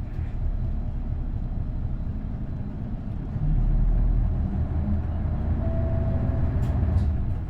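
Isuzu Erga route bus's V8 diesel engine running, a steady low rumble that grows clearly louder about three and a half seconds in.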